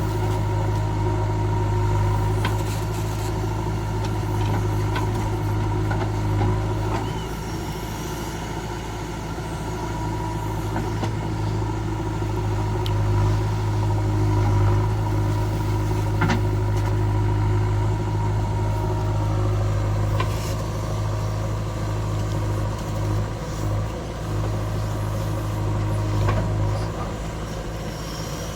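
Diesel engine of farm machinery running steadily under work, with a deep hum and a few short knocks; a higher-pitched whine fades out about twenty seconds in.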